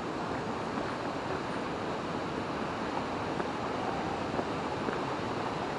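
River water rushing over rocks, a steady, even roar.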